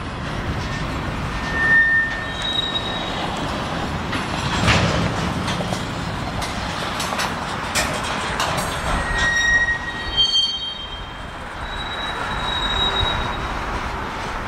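A long freight train's cars rolling in reverse during switching, with several short high-pitched wheel squeals and a few sharp knocks.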